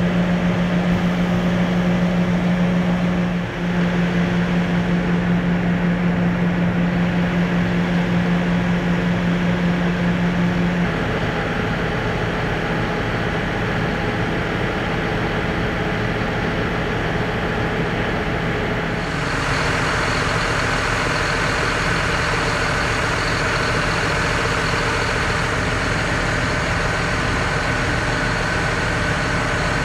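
John Deere 6215R tractor's six-cylinder diesel engine idling steadily, just restarted after new fuel filters were fitted and the fuel system primed. Its steady hum changes about a third of the way in, and a brighter hiss joins it a little past halfway.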